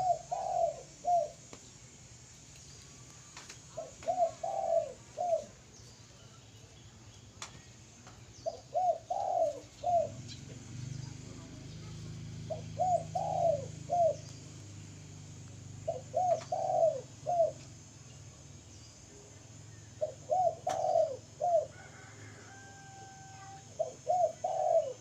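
Spotted dove (tekukur) cooing: a short phrase of three or four coos, repeated about every four seconds, seven times.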